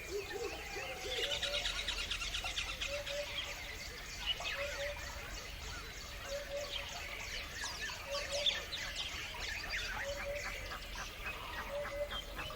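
A chorus of songbirds chirping and trilling over one another, with a burst of rapid trilling about a second in. A lower two-note call repeats every second or two underneath.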